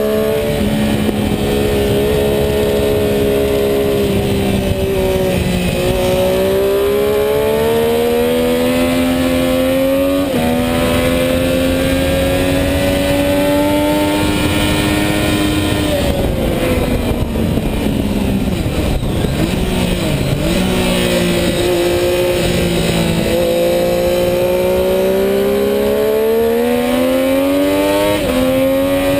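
Sport motorcycle engine under hard acceleration on a racetrack, heard on board with wind noise. The revs climb with upshifts about six and ten seconds in, fall away through downshifts with quick throttle blips around eighteen to twenty seconds, then climb again with another upshift near the end.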